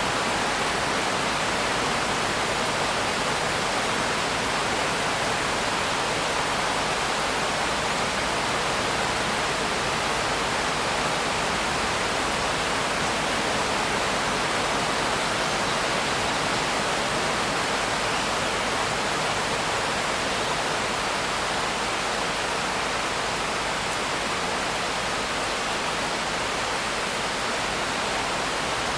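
Steady rain, an even, constant hiss with no individual drops or other events standing out.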